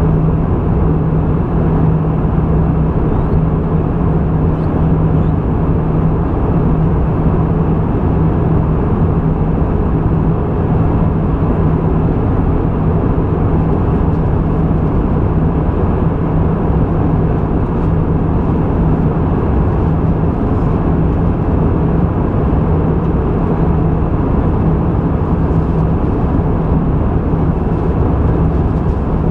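Airbus A320 in flight, heard from inside the passenger cabin: a steady drone of engine and airflow noise with a constant low hum that does not change.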